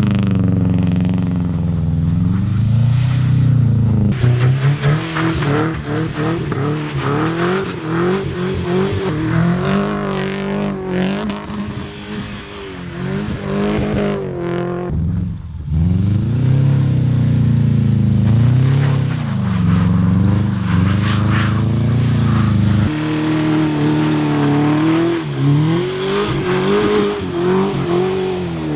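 Subaru flat-four boxer engine and exhaust revving hard, the pitch climbing and falling again and again as the throttle is worked while the car slides around in snow. The revs drop sharply for a moment about halfway through, then pick up again.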